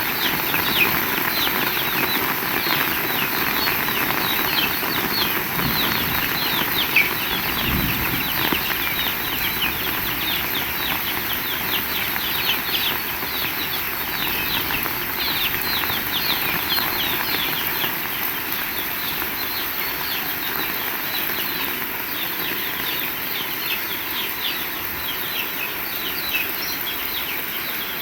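Heavy rain falling steadily, a dense patter of close drops hitting, with a brief low rumble about eight seconds in.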